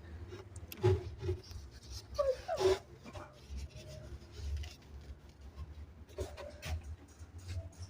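Three-day-old kittens mewing a few short times, with light rustling and clicks from handling.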